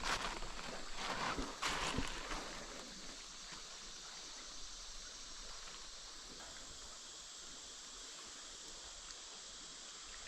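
A few splashes and sloshes of water in a shallow creek over the first couple of seconds, then a steady, faint hiss of running creek water.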